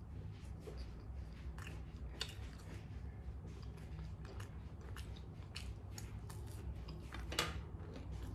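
A person chewing a mouthful of corn dog, with irregular small clicks of biting and chewing over a low steady hum.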